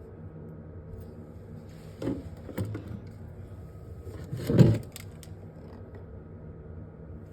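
Objects being handled and set down during a fridge clean-out: a few knocks and clatters, the loudest a little past halfway, over a steady low hum.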